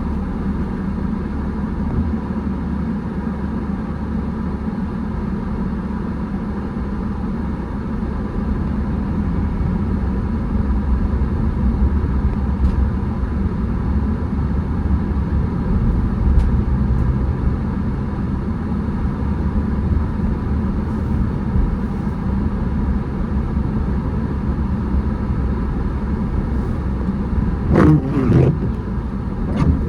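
Steady low rumble of a car driving, the engine and tyre noise heard from inside the vehicle, with a brief wavering pitched sound near the end.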